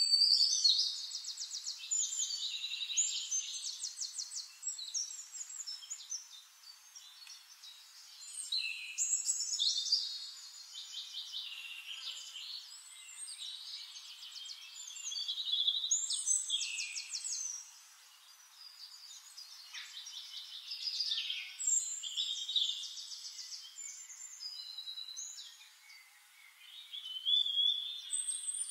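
A songbird singing: short phrases of quick high trills and chirps, repeated about every six seconds.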